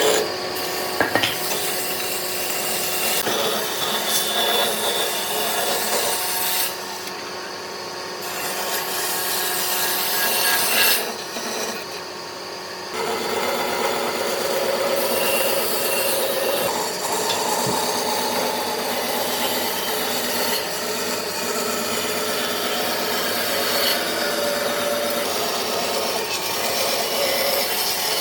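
A hand tool scraping and rubbing on wood in continuous strokes, with two short pauses, about seven and twelve seconds in.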